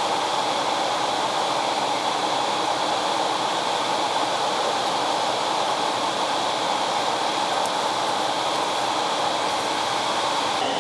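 Steady rushing roar of an Airbus A350 cabin in flight: airflow past the fuselage and the engines, an even noise that holds unchanged throughout.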